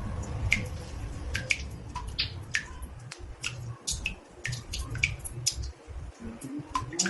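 Water drops falling into a bathtub: irregular plinks, about two or three a second, some with a short ringing pitch, over a steady low rumble.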